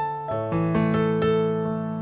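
Slow instrumental keyboard music: an electric piano playing held chords with new notes struck every few tenths of a second.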